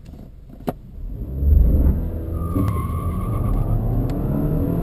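BMW car engine accelerating hard from a standstill at full throttle, heard from inside the cabin: quiet at first, with a sharp click under a second in, then the engine sound builds loudly about a second and a half in and rises in pitch as the car gathers speed.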